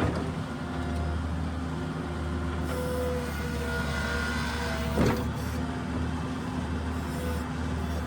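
New Holland skid steer's diesel engine running steadily under work, with a single sharp clunk about five seconds in.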